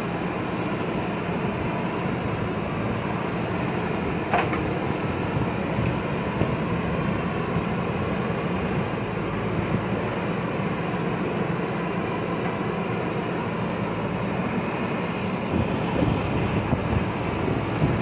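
JCB backhoe loader's diesel engine running steadily while it works. There is a sharp clank about four seconds in and a few louder knocks near the end.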